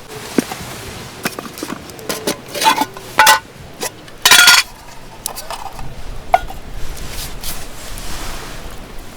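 Clinks and knocks of hard objects being handled, several with a short ringing, the loudest around the middle. Wind rumbles on the microphone in the second half.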